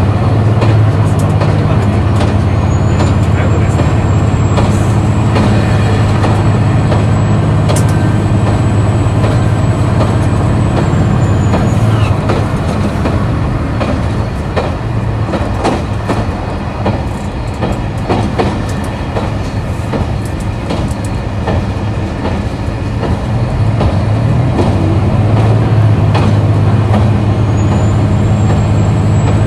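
KiHa 261 series diesel railcar's engine running under power with a strong low drone and a thin high whine. The drone eases off about halfway through and builds up again near the end. Wheels click over the rail joints throughout.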